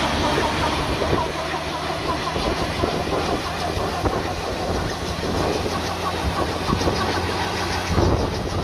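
Homemade helicopter's Volkswagen Brasília air-cooled flat-four engine running steadily, with a rapid rhythmic clatter over it.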